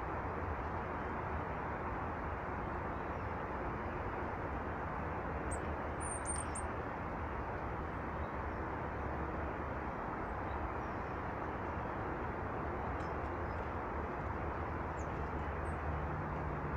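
Steady outdoor rumble, with a few brief, very high-pitched calls from small birds about six seconds in and a couple of fainter ones near the end.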